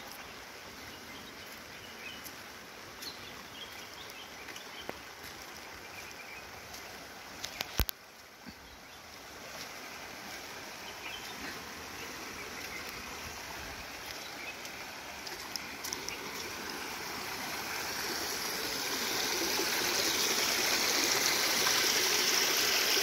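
Steady rain and running water, a noisy hiss that grows louder over the last few seconds. Faint bird chirps come through in the first few seconds, and a few sharp clicks come about a third of the way in.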